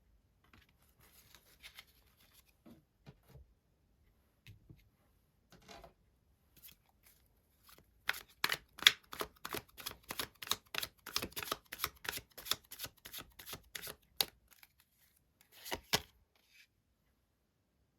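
Tarot cards being handled and shuffled: soft scattered rustles and clicks at first, then a fast run of card clicks, about five a second, for some six seconds from about halfway in, and a short flurry of clicks near the end.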